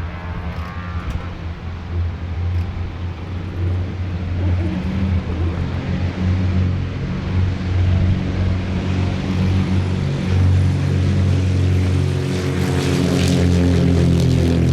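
Propeller aircraft engines droning steadily and growing louder, with an aircraft passing close near the end as its pitch drops.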